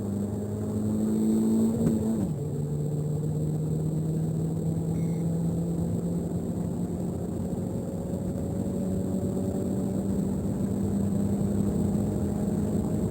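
Peugeot 308 1.6 THP's turbocharged four-cylinder petrol engine under hard acceleration: its note climbs, drops sharply at an upshift about two seconds in, then climbs slowly again through the next gear.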